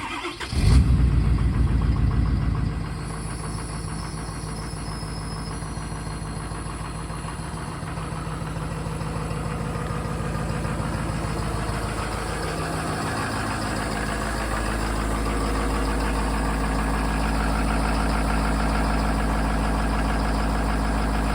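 6.7 Powerstroke V8 turbo-diesel cold-starting: it catches almost at once, surges loud for about two seconds, then settles into a steady clattering idle.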